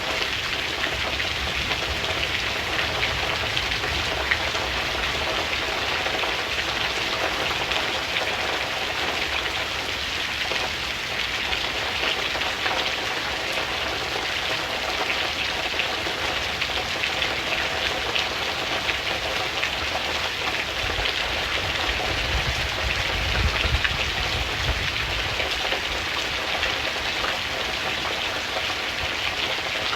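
Steady rain falling and pattering on surfaces, with a low rumble that swells briefly about three-quarters of the way through.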